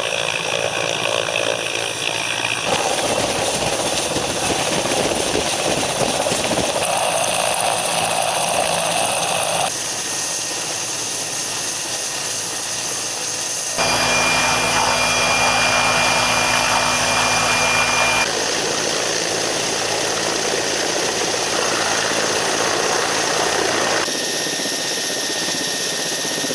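Mi-8 helicopter's turbine engines and rotor running, a loud steady rush with a faint whine, its character changing abruptly every few seconds.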